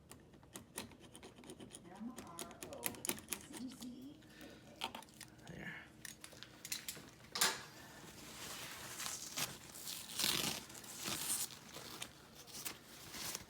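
Scraping and scratching of a razor blade working cured cyanoacrylate glue off plastic trim. Many small clicks in the first half give way to longer, louder scratchy strokes in the second half.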